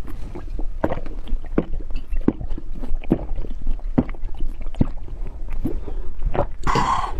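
Eating sounds: short wet chewing smacks about once a second, with a louder rush of breath or noise near the end.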